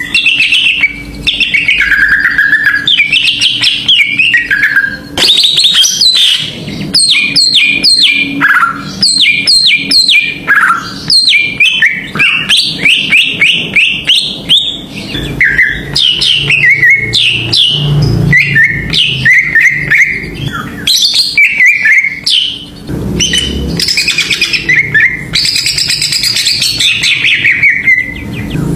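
Cucak ijo (green leafbird) singing vigorously: a continuous run of quick chirps, sharp sweeping notes and rapid trills, with hardly a pause, the excited 'ngamuk' song used as a lure to trigger other birds into singing.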